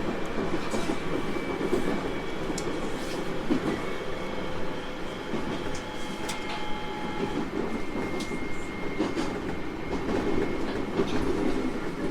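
Running sound of a 701 series 1000-number electric train on the move: a steady rumble of wheels on rail, scattered clicks, and faint thin high tones that hold for a few seconds at a time.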